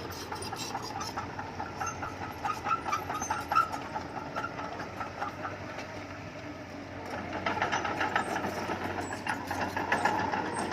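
Crawler bulldozer working: its diesel engine runs while the steel tracks clank and squeak in quick, uneven clicks. The engine grows louder about seven seconds in.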